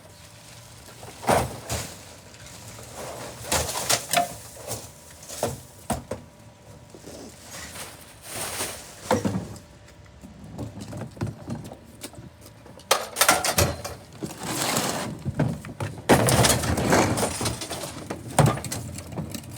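Loose trash being thrown into a garbage truck's rear hopper: irregular thuds, knocks and clatter, thickening into a near-continuous clatter in the last few seconds.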